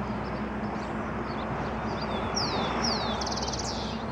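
Wild birds chirping, with two quick down-slurred calls and then a fast trill a little after two seconds in, over a steady low rumble.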